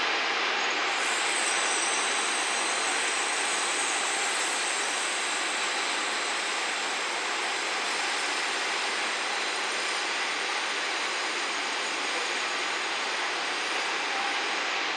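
JR West 117-series electric train rolling slowly through station points, heard from a distance as a steady hiss of running noise, with a high, thin squeal that begins about a second in and fades near the end.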